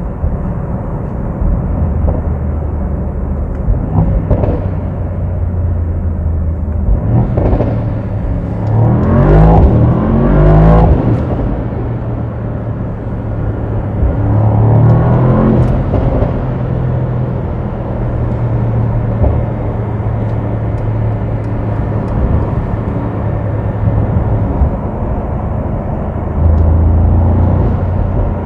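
Mercedes-AMG SL63's twin-turbo V8 engine pulling through the gears in a tunnel. The revs rise twice in quick succession about eight to eleven seconds in and again around fifteen seconds, between stretches of steady running.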